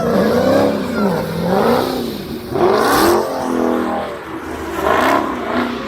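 Car engine revving again and again, its pitch climbing and falling about once a second, with louder, higher revs near the middle and near the end.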